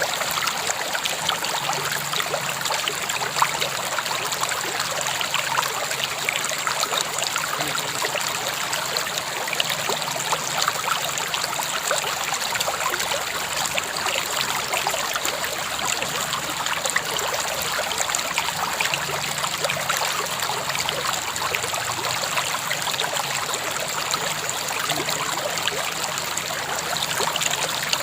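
River water flowing steadily over stones, a continuous bubbling and trickling rush with no pauses.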